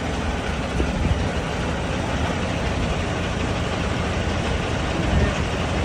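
Steady low engine rumble, like a heavy vehicle idling, with no distinct knocks or clanks.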